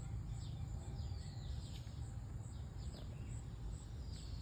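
Birds chirping in short, quick falling notes over a low steady rumble, with a faint high-pitched pulsing about twice a second.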